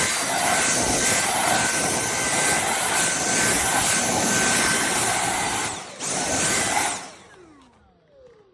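Dyson V8 cordless vacuum running with a steady high whine. It cuts out for a moment about six seconds in, starts again, then is switched off, its motor whine falling in pitch as it spins down.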